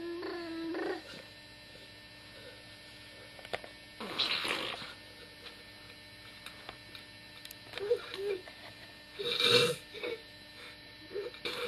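Young child making funny vocal noises: a short pitched coo that rises at its end right at the start, then two breathy, noisy bursts (about 4 seconds in and near 9.5 seconds), with small babbling sounds near 8 seconds and near the end.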